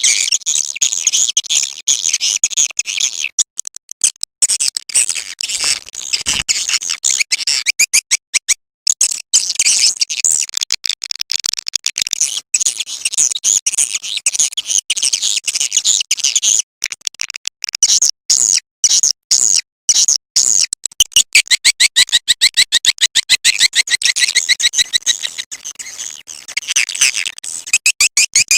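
Swiftlet lure-call playback: dense, rapid, high twittering chirps, cut through by many brief dropouts of silence. In the last third a lower, faster run of repeated chirps joins in.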